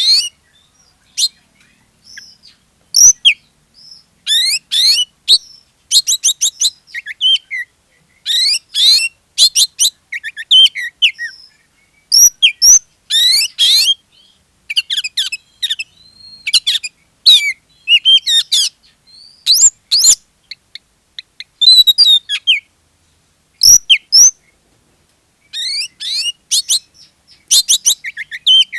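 Oriental magpie-robin (kacer) in full, non-stop 'gacor' song: short, rapid phrases of varied whistles, trills and chirps, one after another with brief pauses. This is the kind of vigorous song used as a lure to set other magpie-robins singing.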